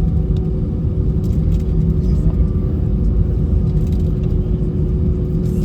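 Airbus A319 cabin noise from a window seat: a steady low rumble of the engines and airframe, with a constant hum, as the jet rolls on the ground after landing.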